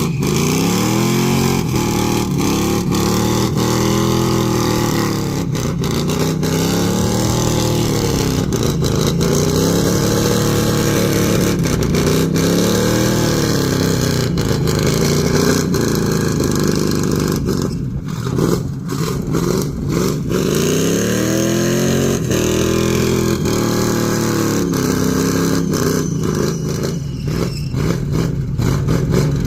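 A car or truck engine revved hard over and over during a burnout. Its pitch climbs and falls again every two to three seconds, with a short break about two-thirds of the way through.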